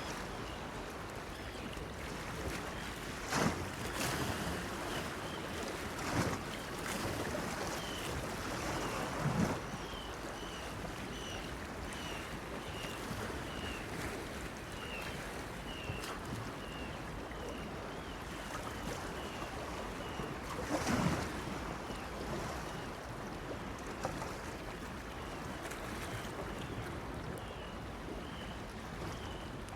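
Sea waves washing against a pier, a steady wash broken by a few louder splashes. Through the middle, a run of short high chirps repeats about twice a second.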